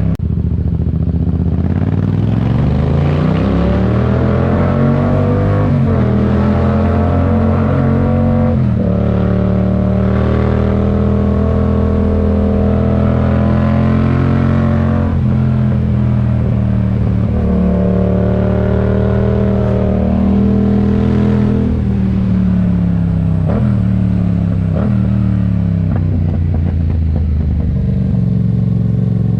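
Yamaha MT-07 parallel-twin engine through a RoadsItalia aftermarket exhaust, pulling through the gears: the revs climb, drop sharply at each shift, and hold steady at cruise in between, several times over.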